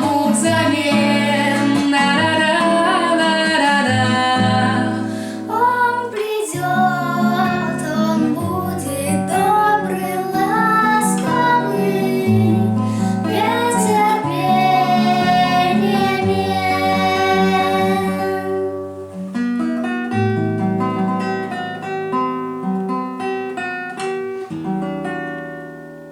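A child singing a song over an instrumental accompaniment; the voice stops about 18 seconds in, and the accompaniment plays on alone and fades out at the end.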